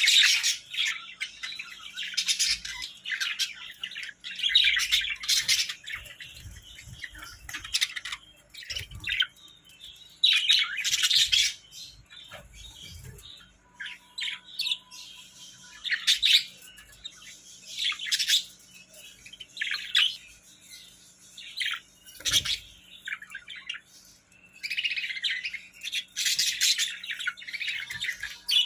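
A pair of pet Hagoromo budgerigars chirping and warbling in short, repeated bouts with brief pauses between them.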